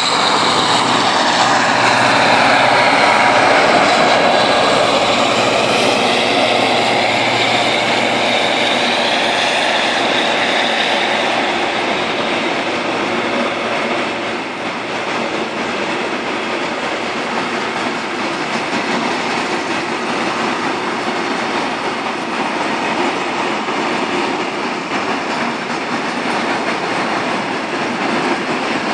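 Freight train of covered and open wagons rolling past close by, a continuous rumble and rattle of wheels on rail. It is loudest in the first few seconds and settles to a steadier, slightly quieter run of passing wagons from about halfway.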